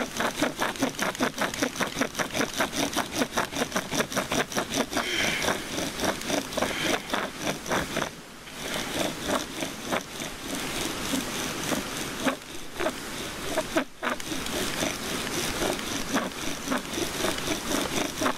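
Bow drill being worked fast: the wooden spindle is driven back and forth in the hearth board at several strokes a second, each stroke giving a rasping squeak as it burns in the new depression. The strokes break off briefly twice.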